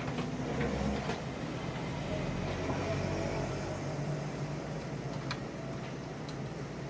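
A few light clicks and taps of tools and handling on the amplifier's chassis, over a steady low hum.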